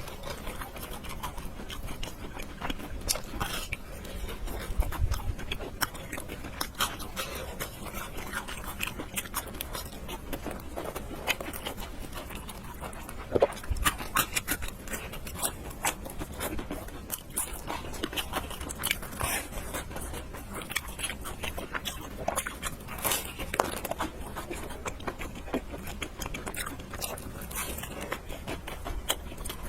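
Close-miked mukbang eating sounds: a person chewing and slurping noodles, with a steady run of short wet mouth clicks and smacks.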